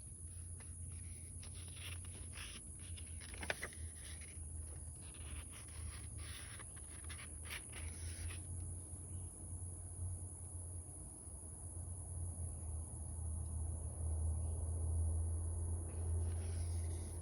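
Sketchbook paper pages being handled and turned: a run of short rustles and one sharp click in the first half, then they stop. A steady low rumble lies under it and swells toward the end, with a steady thin high whine above.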